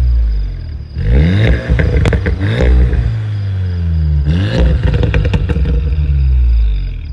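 Volkswagen Golf R (Mk7.5) 2.0-litre turbocharged four-cylinder being revved in quick blips. The revs rise sharply about a second in, again around two and a half seconds and again near four and a half seconds, each time falling back, with sharp cracks as the revs drop.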